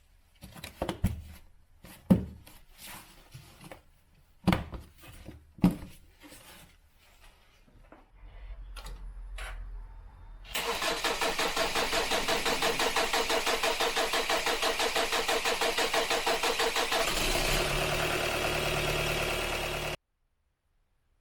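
Kia Sportage 2.0 CRDi diesel engine being cranked on a cold start. After some clicks and knocks, the starter turns it over with a fast, even pulsing for about six seconds. The sound then changes for a few seconds before cutting off abruptly. The long crank is a hard cold start, the symptom the video puts down to a defective glow plug plate.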